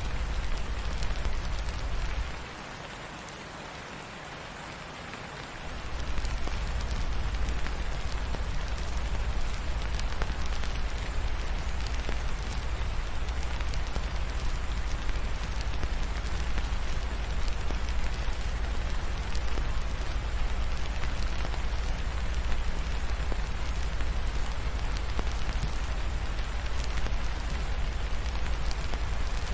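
Steady rain falling, an even hiss with scattered patter, over a deep low rumble that drops away for about three seconds a couple of seconds in, then returns.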